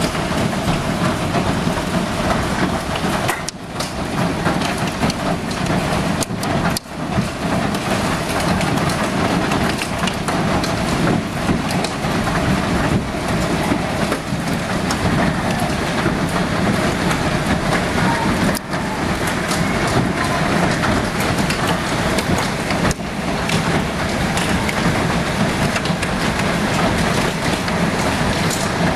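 Hailstorm: hail and heavy rain pelting down in a dense, continuous clatter, with many sharper individual stone strikes.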